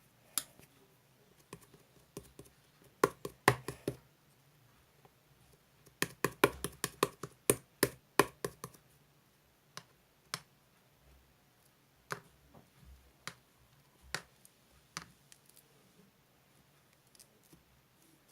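Sharp clicks and taps on a hard object, with a short quick run about three seconds in, a longer rapid run from about six to eight and a half seconds, then single taps a second or so apart.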